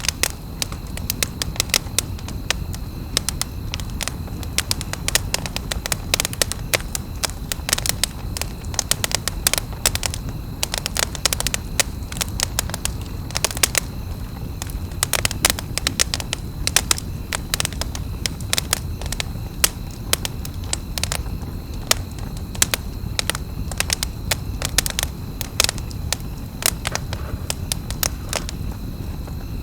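Campfire crackling, with frequent sharp pops and snaps over a steady low rumble of burning wood.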